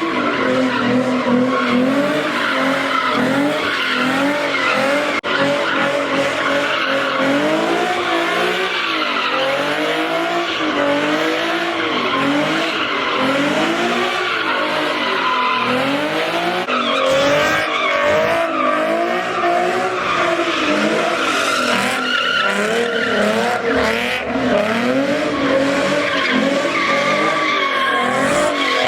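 Car doing a burnout in a takeover, its engine held high at first, then revving up and down over and over from about seven seconds in, with tyres squealing and skidding against the pavement.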